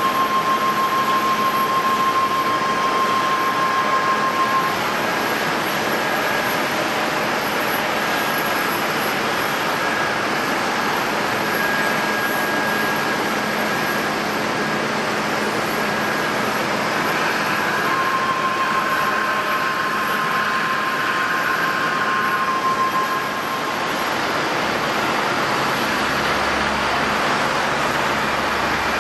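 Passenger jet engines running, a steady rush of noise with a thin whine that fades out and comes back.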